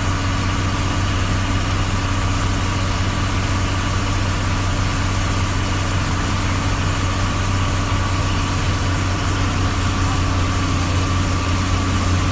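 A vehicle engine idling steadily: a constant low hum with an even hiss over it.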